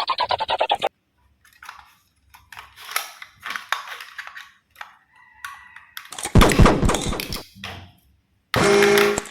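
Plastic toy trains and their packaging being handled: a quick run of rapid clicking at the start, then scattered knocks and clatters, a loud rattle about six seconds in, and a short buzzing sound near the end.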